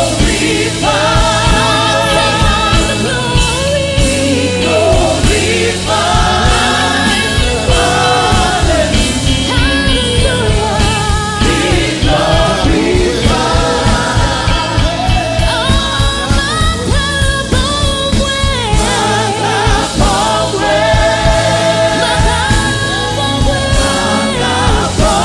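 Gospel choir singing a worship song with a live band, voices in harmony over a steady beat.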